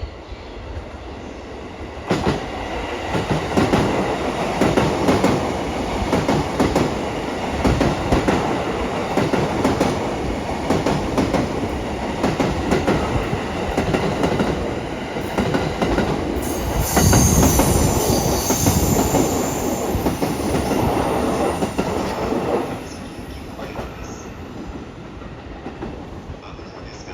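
E233 series electric multiple unit passing, its wheels clacking over rail joints in a repeated clickety-clack. The train sound builds about two seconds in, a high-pitched sound joins for a few seconds past the middle, and it drops to a quieter rumble near the end as the train goes by.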